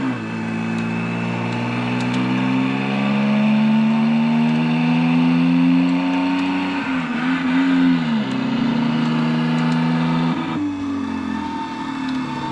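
Car engine revving: its pitch climbs steadily for several seconds, dips and rises again about two-thirds of the way through, then changes abruptly near the end.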